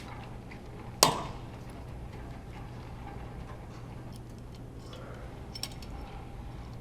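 A single sharp metallic clank with a short ring, about a second in, then a few lighter clicks near the end: tools and metal engine parts being handled and set down during engine disassembly. A steady low hum runs underneath.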